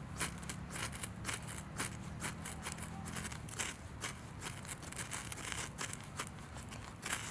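Wood fire crackling, with irregular sharp pops and snaps several times a second. A faint low hum sits underneath and fades about three seconds in.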